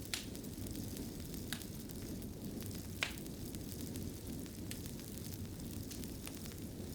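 Wood fire crackling in a fireplace: a steady low rumble of burning with irregular sharp pops, the loudest about three seconds in.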